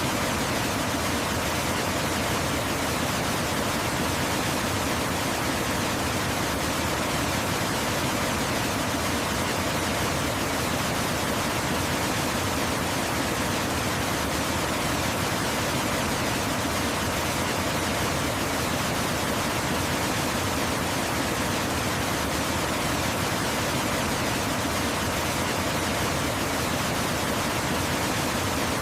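Waterfall flowing steadily: an even, unbroken rush of water with no changes or separate events.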